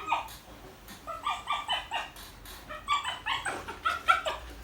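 Dog yipping and whining excitedly in a quick run of short, high calls, several a second, starting about a second in.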